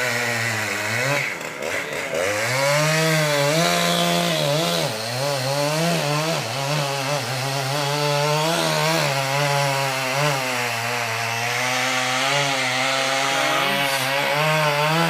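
Chainsaw cutting into the base of a large oak trunk for the felling cut, its engine pitch dipping and recovering as the chain bites into the wood. It stops abruptly at the end.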